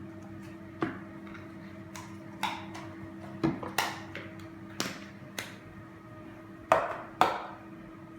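Irregular sharp taps and clicks, about nine of them, from play-dough tools and pots being handled and knocked on a table while shapes are cut and pressed, over a faint steady hum.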